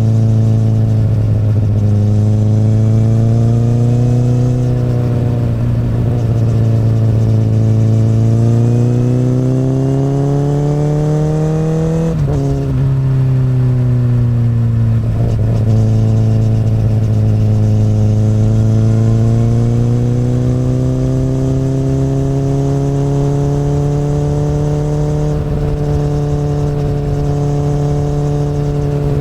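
Inline-four engine of a 2008 Honda CBR1000RR (SC59), heard through an Akrapovic exhaust while the bike pulls uphill at moderate revs. The pitch rises and falls with the throttle, dipping sharply about twelve seconds in and briefly twice more, then climbing steadily again.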